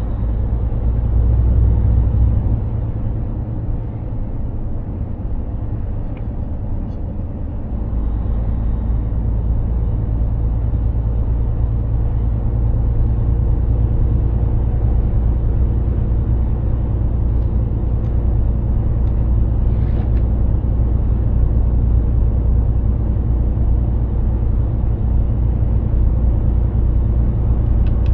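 Mercedes-Benz Actros 2763 truck driving along, its diesel engine and tyre and road noise making a steady low drone that grows louder about eight seconds in.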